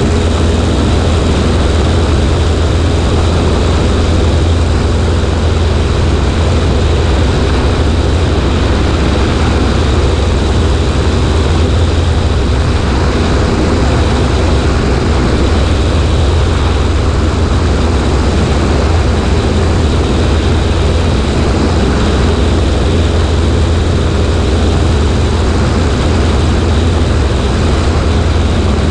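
Cessna 140A light plane's engine and propeller running steadily, a constant low drone mixed with the rush of air over a wing-mounted microphone.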